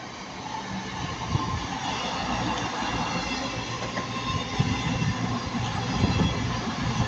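Passenger train running past on the line, growing louder as it approaches. A rumble of wheels sits under a steady high whine.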